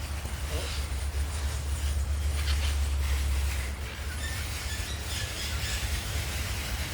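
Outdoor ambience: wind rumbling on the microphone, with a few faint short bird chirps about two-thirds of the way through.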